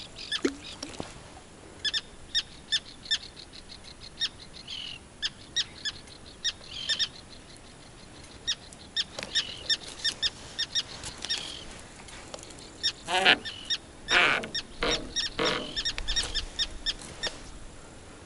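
A bird calling over and over in short, sharp notes, several a second at times. About two-thirds of the way through come a few louder rustles and knocks.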